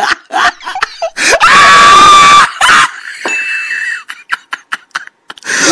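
A burst of laughter and voices, then about one and a half seconds in a single loud, high-pitched scream held at one pitch for about a second, followed by a few short clicks.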